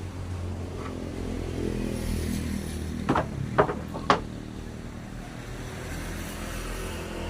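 Three sharp knocks about half a second apart, a little past three seconds in, over a steady low motor hum.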